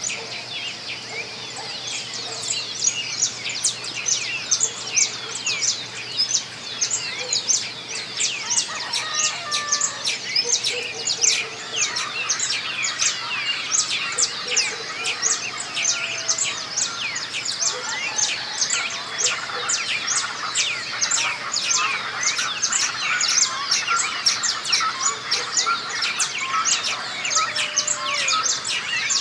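A dawn chorus of many small birds singing at once: a dense mass of overlapping high chirps and trills, growing fuller about two seconds in, with a few lower whistled notes beneath.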